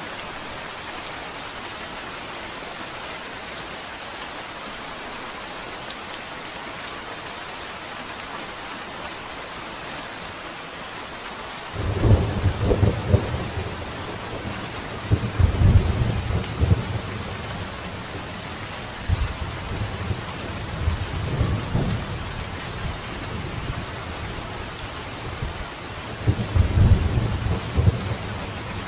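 Steady rain falling, with rolling thunder that breaks in suddenly about halfway through and rumbles on in deep swelling waves to the end.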